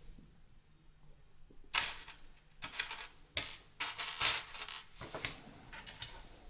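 Loose plastic LEGO pieces clattering against each other as they are handled, in a series of short rattling bursts from about two seconds in, loudest about four seconds in.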